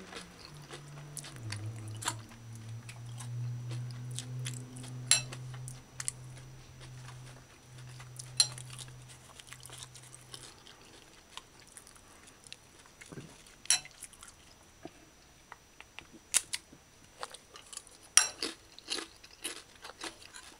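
Tortilla chips crunching and being chewed, with sharp clicks scattered throughout. A low steady hum runs under the first half and stops about halfway through.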